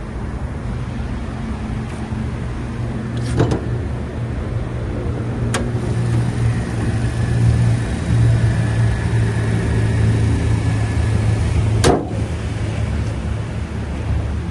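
Toyota Corolla Altis 1.6-litre four-cylinder engine idling steadily with a low hum, with three sharp clicks along the way.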